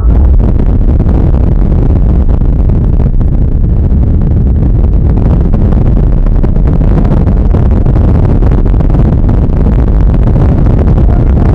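Steady, loud wind buffeting and road rumble on the SJ4000 action camera's microphone while riding a motorcycle, with no clear engine note standing out.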